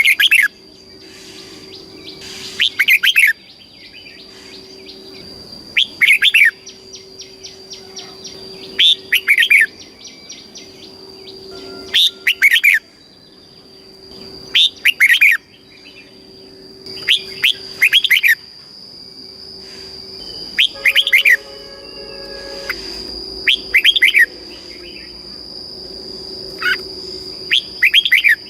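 Red-whiskered bulbul singing: about ten short, loud, warbling phrases, spaced two to four seconds apart. A steady high-pitched whine runs underneath.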